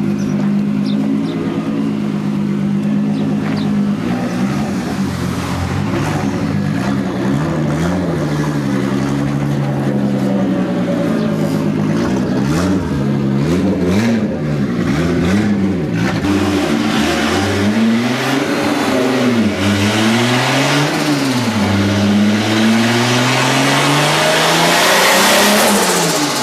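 Car engine revving over and over, its pitch rising and falling, with the revs held high and loud near the end before dropping back.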